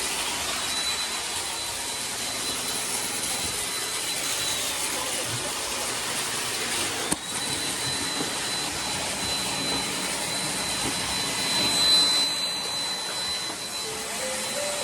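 Several robot vacuums running at once: a steady whirring rush with a thin high whine over it. A sharp click comes about halfway through, and the sound swells briefly near the end.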